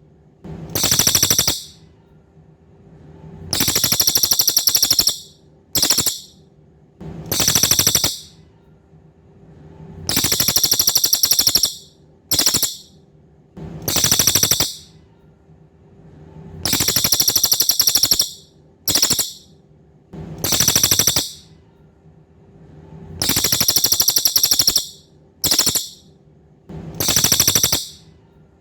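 Cililin bird calling: loud, high-pitched buzzy rattling trills, repeated every one to three seconds, long ones alternating with short bursts. A faint steady low hum runs underneath.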